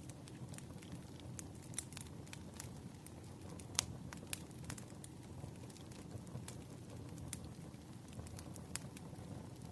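Wood fire crackling: irregular sharp snaps and pops over a low steady rumble of burning logs, with one louder pop a little under four seconds in.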